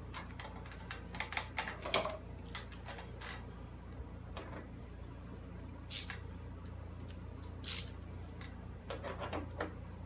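Small metal clicks, taps and clatter of hand tools and fasteners as the mower's side panel is bolted back on, with two brief louder rasps about six and seven and a half seconds in, over a steady low hum.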